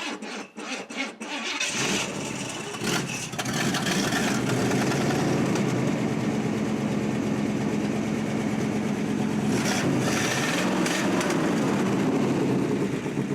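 1980 Pontiac Trans Am's 301 V8 cranked by the starter for under two seconds, catching and then idling steadily. The exhaust note has a leak that the owners put down to a failed exhaust gasket.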